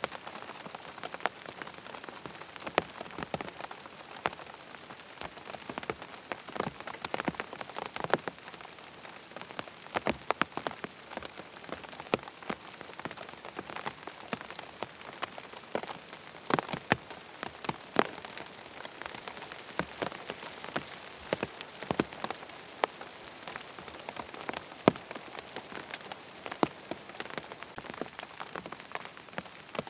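Steady rain hiss, with frequent sharp, irregular ticks and pops scattered through it.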